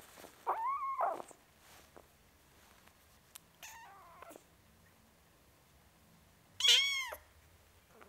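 A young kitten meowing three times: a rising-and-falling meow about half a second in, a fainter one around the middle, and the loudest, highest-pitched one near the end.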